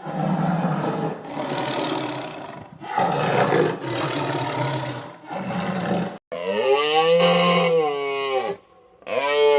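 Lion roaring: a run of five rough, grating roars. About six seconds in, a different animal gives a long pitched call that rises and then falls, followed by a shorter one near the end.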